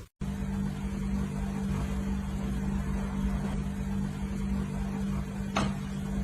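Steady low mechanical hum, with a single sharp click about five and a half seconds in.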